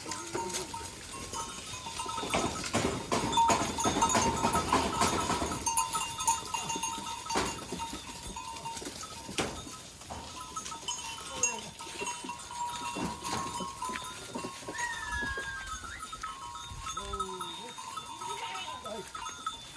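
Herd of goats on the move: bells on the goats ringing steadily, with a dense clatter of hooves and movement a few seconds in, and a few short bleats near the end.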